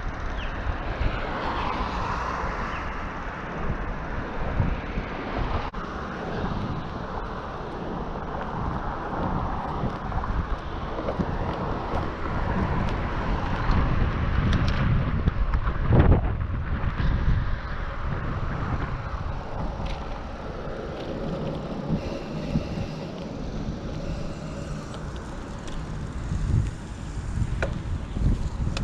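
Wind buffeting a GoPro Hero 7's microphone while riding a bicycle, a steady rushing noise, with one sharp thump a little past halfway.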